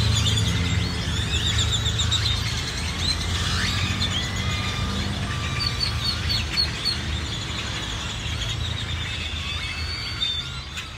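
Several songbirds chirping and trilling at once, over a steady low hum.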